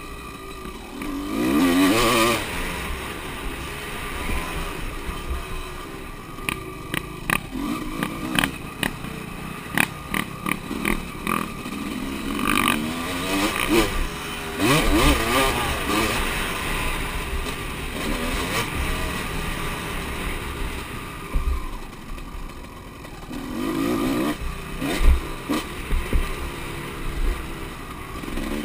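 Motocross motorcycles revving and passing, their engine notes rising and falling in pitch several times. A run of sharp clicks and rattles comes in the middle.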